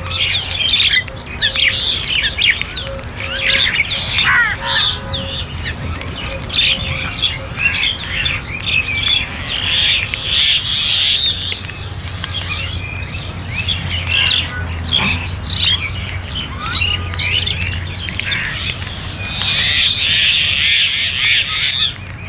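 A flock of crows cawing and squawking, many calls overlapping with hardly a gap, over a steady low hum.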